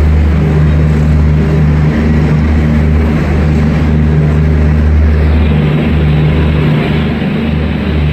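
Loud, steady low rumble and hum of a train.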